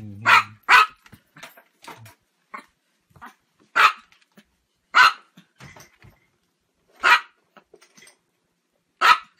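A small Chihuahua yapping: sharp, high-pitched barks, two in quick succession at the start, then single barks spaced a second or two apart.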